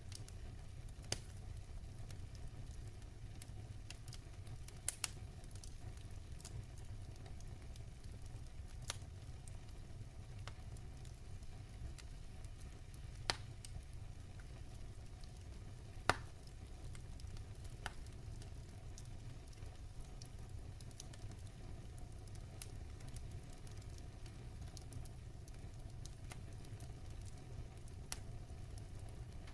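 Firewood burning in a fireplace: a steady low rumble with scattered sharp crackles and pops, the loudest about sixteen seconds in.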